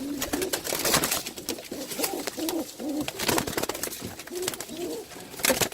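Domestic pigeons cooing over and over, a string of short rising-and-falling coos, among scattered clicks and knocks, with a louder clatter near the end.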